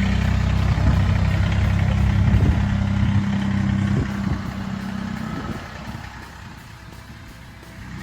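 Diesel engine idling with a steady low hum. It drops in level about four seconds in and is quieter near the end.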